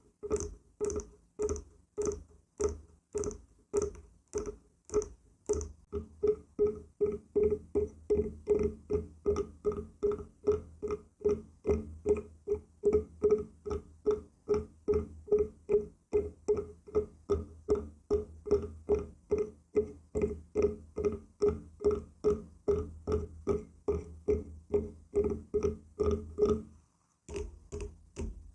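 Fingers tapping on wood in a steady rhythm, about two to three knocks a second, each knock ringing at the same pitch. For the first few seconds the knocks have a crisp, clicky edge, then they turn duller. There is a brief pause near the end before the tapping resumes.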